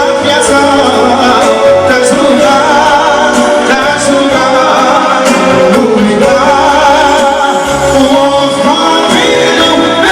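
Live wedding band music with singing: a loud, steady stream of ornamented, wavering melody over accompaniment.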